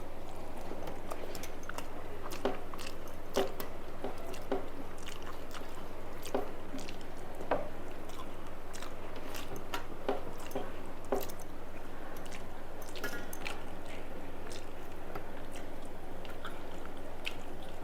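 Close-up eating sounds of a person chewing and biting through a Bengali rice meal, with wet chewing and scattered sharp mouth clicks and crunches over a steady low hum.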